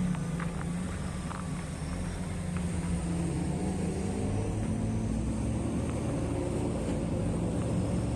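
Heavy diesel engine of mine earthmoving equipment running steadily with a low drone, with a few faint clicks in the first second or so.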